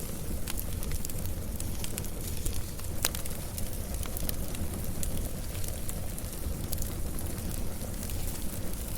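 Wood fire burning with a steady low rumble and hiss and scattered sharp crackles and pops, one louder pop about three seconds in.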